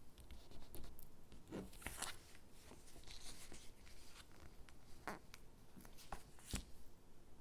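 Stickers and paper gingerbread cutouts being handled: soft taps, rustles and scratchy rubbing, with a longer scratchy stretch about two seconds in and a sharper tap near the end.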